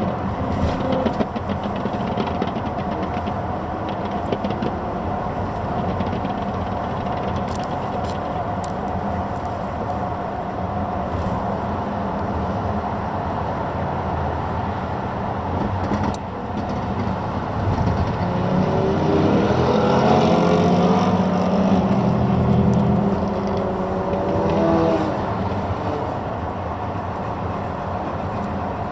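Racing car engines running at speed throughout. Just past halfway one car comes close and is loudest, its engine note climbing and dropping back through several upshifts before it fades.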